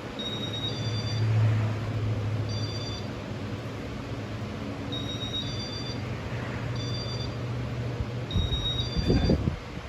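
Ceiling fan running with a steady low motor hum. Over it come repeated short patterns of high electronic tones, like a phone ringtone, about every two seconds. There is a brief low bump near the end.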